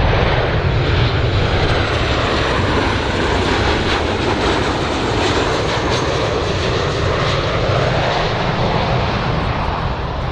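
Airplane engines running loud and steady, a dense rushing sound whose pitch shifts slowly.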